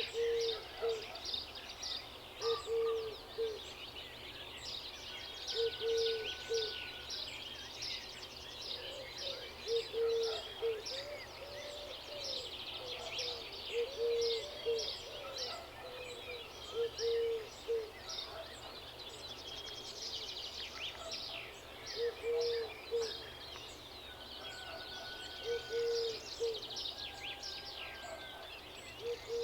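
Chorus of small songbirds chirping and twittering densely, with a low two-note call repeating every few seconds beneath it.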